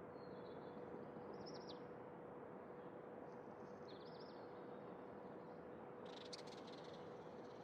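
Faint birds chirping in three short high phrases, the last one buzzier, over a steady background hiss and a low steady hum.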